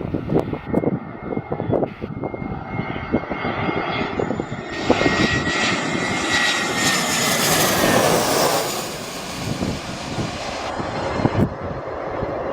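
Airbus A320 twin jet engines passing close by on approach. The engine noise and a high whine build to their loudest about halfway through, then fade as the whine drops slightly in pitch.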